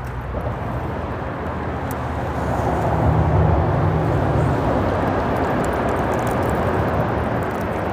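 Steady traffic noise from the freeway bridge overhead, a continuous rush that swells louder about two and a half seconds in as vehicles pass over.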